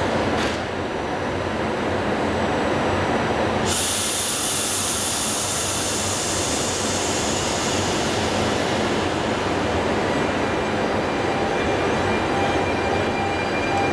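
Train running at a station with a steady rumble. About four seconds in, a sudden high hiss starts and fades away over several seconds; thin whining tones come in near the end.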